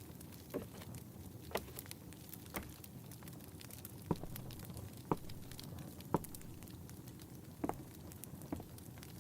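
Wood fire crackling in a fireplace: irregular sharp pops and snaps, about one a second, over a low steady hiss.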